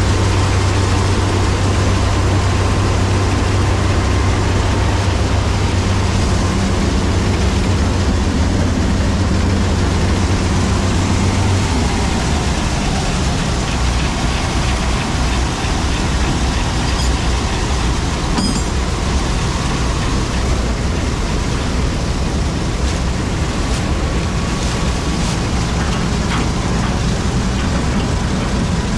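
Zmaj 142 combine harvester running steadily under a constant mechanical noise. Its low engine hum changes to a lower note about twelve seconds in.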